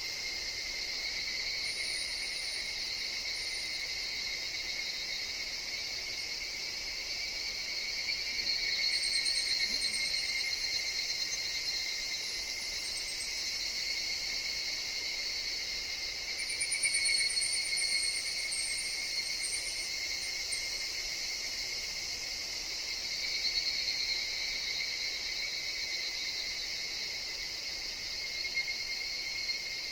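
Higurashi (evening cicadas) calling in a steady, high-pitched insect drone that swells and fades in waves, with short, very high trills now and then.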